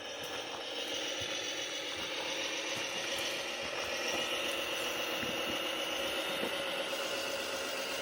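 Tamiya Globe Liner 1/14-scale radio-controlled truck running: a steady mechanical whine with light rattling, growing a little louder over the first couple of seconds.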